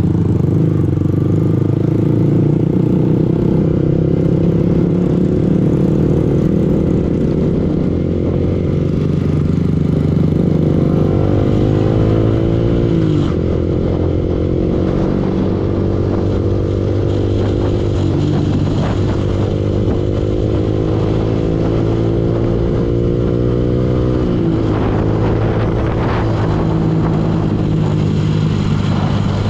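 Yamaha R15 V2's single-cylinder four-stroke engine running under way. Its pitch climbs slowly as it pulls, then drops sharply twice, about 13 and 24 seconds in, as the rider shifts up, before climbing again.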